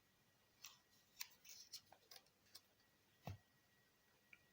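Faint crinkles and taps of origami paper being handled and creased: a scattering of short, soft clicks, the most distinct one a little over three seconds in.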